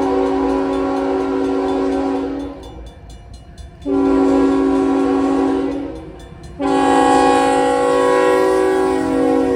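Locomotive air horn sounding a chord of several tones in three long blasts. The first stops a couple of seconds in, the second runs about two seconds, and the third starts near 6.6 s and is still sounding at the end.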